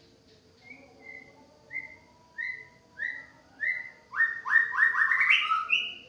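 White-rumped shama singing: six short, clear whistled notes, each sliding slightly down, evenly spaced and growing louder, then breaking about four seconds in into a loud, rapid flourish of rising notes.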